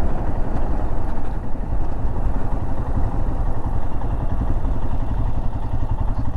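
Royal Enfield Himalayan 411's single-cylinder engine running steadily under way.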